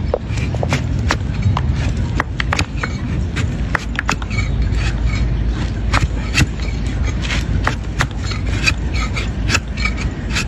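A donkey's hoof being pared with a hoof blade: irregular sharp cracks and scraping strokes as the horn is cut away, over a steady low rumble.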